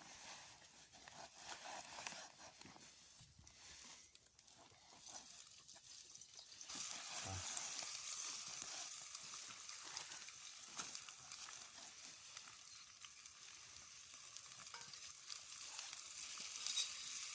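Chunks of potato frying in hot oil in a cast-iron kazan. Light crackling at first, then a louder steady sizzle starts about a third of the way in, with sharper crackles near the end.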